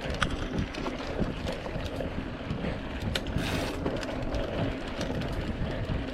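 Mountain bike descending a dirt trail: wind rushing over the microphone, tyres rolling on dirt and the bike rattling, with scattered clicks and knocks.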